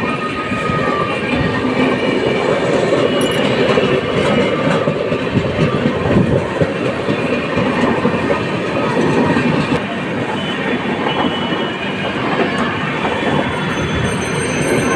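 A train running past with a steady, unbroken rumble of its wheels and cars on the track.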